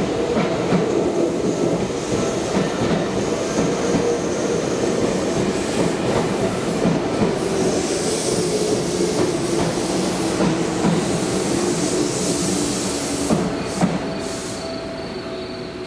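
Seibu 4000-series electric train pulling into the platform: wheels clacking and rolling on the rails, with a brake hiss building as it slows. A couple of knocks and then a drop in level a little before the end as it comes to a stop, leaving a faint steady tone.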